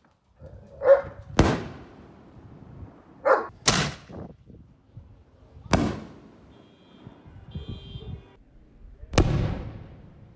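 Fireworks going off: four sharp bangs a couple of seconds apart, each ringing out briefly. A dog barks twice, each bark just before one of the first two bangs.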